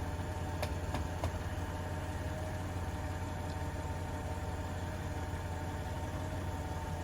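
A Jeep's engine running at a steady idle, with a constant hum and a steady higher tone over it. Three light clicks come in the first second or so.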